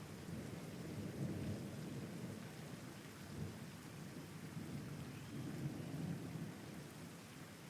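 Thunderstorm: steady rain hissing under a low rolling rumble of thunder that fades near the end.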